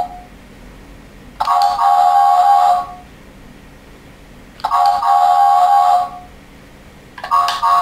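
Electronic chime tones from the speakers of interactive battery-operated toy trains (Golden Bear My First Thomas and James). Two steady, doorbell-like tones of about a second and a half each come a few seconds apart, and a third starts near the end.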